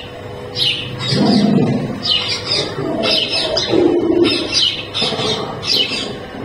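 Bird calls: short high chirping calls repeated about twice a second, with lower cooing sounds between them.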